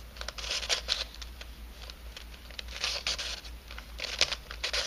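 A 3D-printed nylon helicopter-cube puzzle being twisted by hand: its plastic pieces scrape and click against each other in an irregular run of short rasps, loudest about a second, three seconds and four seconds in.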